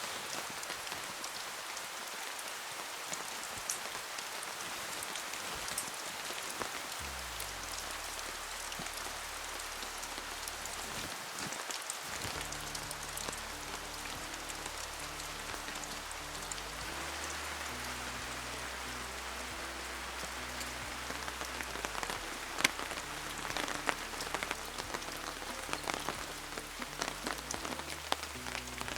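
Rain falling steadily as an even hiss, with individual drops clicking sharply on a surface. The drop hits grow louder and more frequent in the last several seconds.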